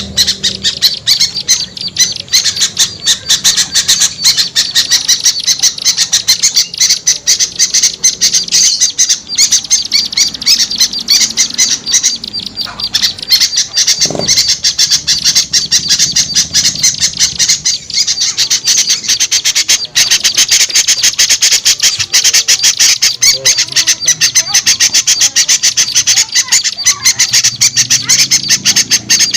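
Agitated alarm and scolding calls of many small songbirds mixed together: dense, rapid, high-pitched chattering with many notes a second and no break. This is a bird-lure recording meant to draw small birds down.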